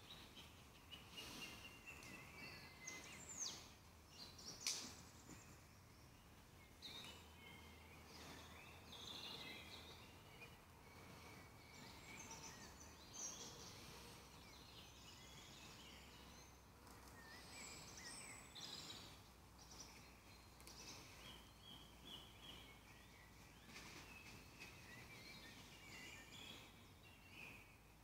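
Faint birdsong, chirps and short trills from several small birds throughout, with two sharp clicks about three and a half and four and a half seconds in.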